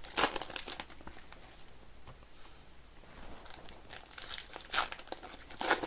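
Trading card pack wrappers crinkling and tearing as packs are opened by hand, in two bursts of crackling with a quieter pause between.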